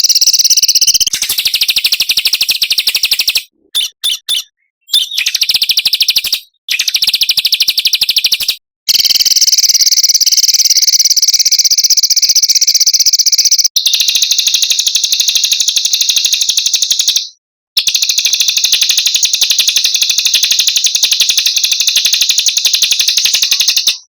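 Recorded song of small songbirds: long, very rapid, high-pitched trills lasting several seconds each, broken by short pauses, with a few short bursts about four seconds in. The song cuts off abruptly at the end.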